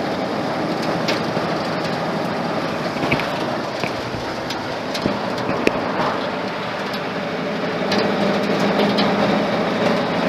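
Ford flathead engine running steadily as the truck drives along, with road and wind noise; it grows a little louder near the end.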